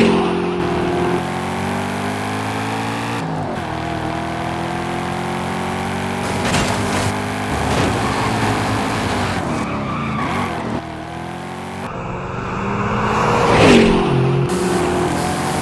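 Car engine sound effects: engines running hard with rising pitch, and a car passing by with a sharp drop in pitch at the start and again about 14 seconds in. About three seconds in the engine pitch drops briefly and climbs again, like a gear change.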